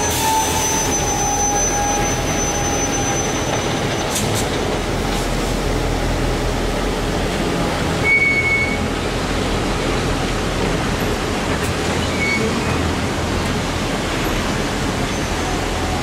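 Passenger train running over a steel trestle bridge, heard from inside a carriage: a steady rumble of wheels on rails, with a brief high squeal about eight seconds in.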